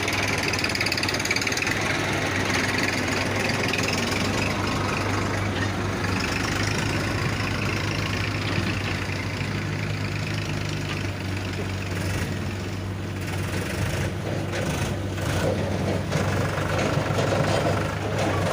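Heavy diesel engines of a backhoe loader and a tractor running steadily, with a continuous low hum under a rough mechanical noise.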